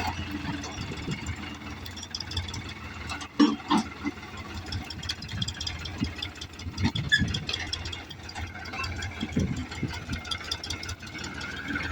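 New Holland 3630 tractor's diesel engine running steadily, with irregular knocks and rattles over it, the loudest about three and a half seconds in.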